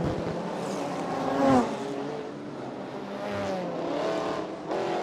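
Race car engines running at racing speed, their notes rising and falling as the cars accelerate, shift and go by. The loudest pass comes about a second and a half in, its engine note dropping as it goes past.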